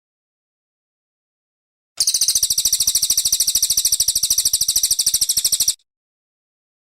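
Brown cililin bird singing one long, fast, even trill of high notes, about a dozen a second, starting about two seconds in and lasting nearly four seconds.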